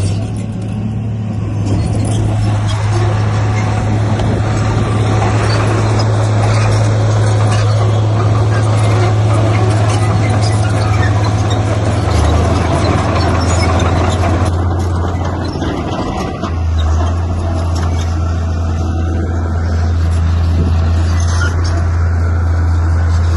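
Heavy diesel engine of earthmoving machinery running steadily and loudly, with a strong low drone; it eases briefly just after the start and again about 16 seconds in.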